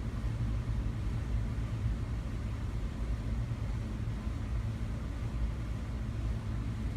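Ceiling fan running steadily: an even rush of moving air with a deep rumble.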